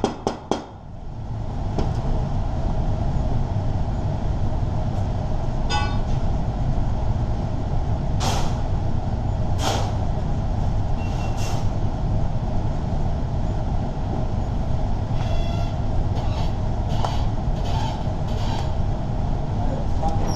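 A steady machine-like rumble, like a motor running, with a few sharp metal clanks and clicks over it, most clearly about eight, ten and eleven seconds in.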